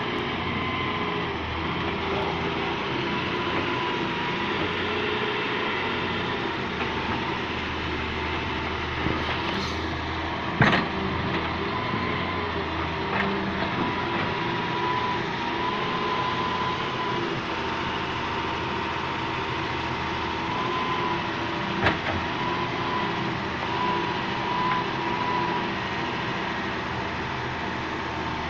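Hitachi EX200 hydraulic excavator's diesel engine running steadily, with a faint wavering whine over it. Sharp knocks stand out twice, about eleven and twenty-two seconds in, the first the loudest.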